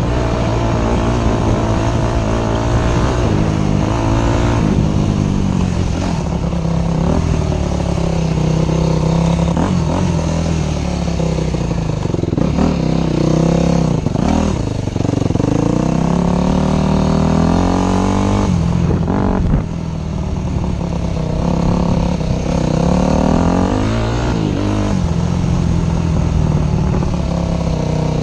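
Motorcycle engine running hard, its pitch rising and falling again and again as the rider revs through the gears. There is a brief break about two-thirds of the way through.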